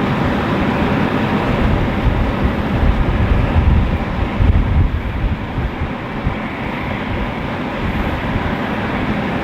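Airbus A330-300 airliner's jet engines running loud: a dense, rumbling noise whose low end swells and churns unevenly from about two to six seconds in.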